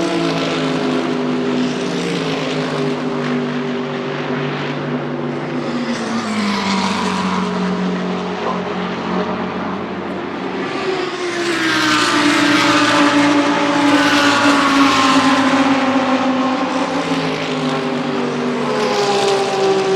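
GT3 race cars passing at speed, one after another. Each engine's note falls as the car goes by, and the loudest pass comes about twelve to fifteen seconds in.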